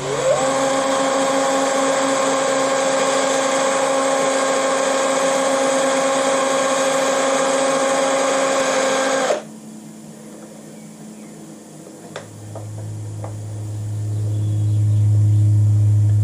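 Electric drill spinning an engine valve against 1000-grit sandpaper to polish its back face: a steady whine that rises briefly as it spins up, then cuts off suddenly about nine seconds in. A few faint clicks follow, and a low hum builds near the end.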